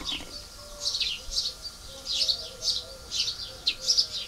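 Small birds chirping: short, high, falling chirps, a few a second and irregular.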